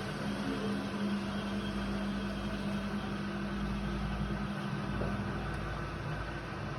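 Indesit WIDL 106 washer-dryer running mid-cycle: a steady drum and motor noise with a low hum that fades about five seconds in.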